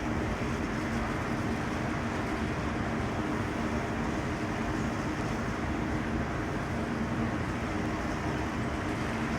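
Rooftop HVAC equipment running steadily: an even mechanical rush with a low hum of a few steady tones, loud enough that the neighbour calls it illegally loud.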